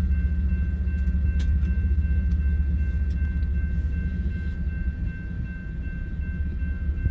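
Diesel freight locomotives working under power as a long freight train starts rolling slowly: a steady low rumble with a faint steady high tone over it.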